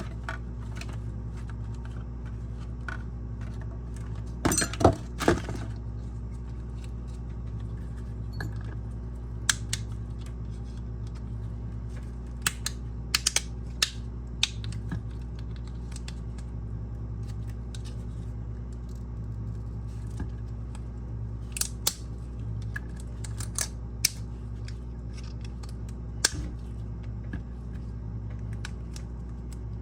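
Scattered small clicks, taps and snips of a small plastic toy being handled and taken apart, with a cluster of louder knocks about five seconds in, over a steady low hum.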